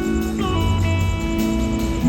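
Live band music led by an electric slide guitar solo: held notes, with the slide gliding up into a new note about half a second in, over bass and drums.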